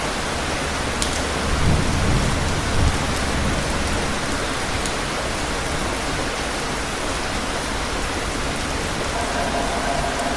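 Steady rain falling, a continuous hiss, with a low roll of thunder rumbling from about a second and a half in to about four seconds.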